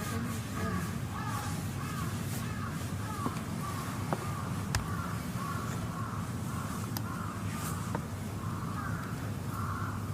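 Crows cawing over and over in quick succession, over a steady low hum, with a few sharp clicks.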